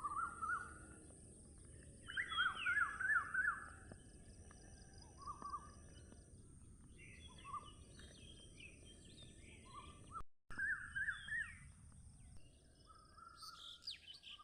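Forest birds calling: short bursts of rapid chirping notes come every one to three seconds, the loudest phrase about two seconds in. A steady high-pitched drone sits underneath, with a brief break in all sound about ten seconds in.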